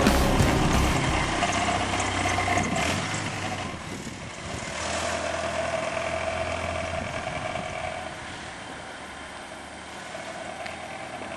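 Music fading out over the first few seconds, then a steady low hum of an engine running.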